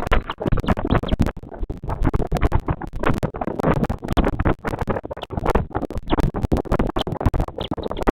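Continuous scratchy rustling and crackling on a bearded vulture nest camera's microphone, a rapid irregular run of rough strokes with no pauses.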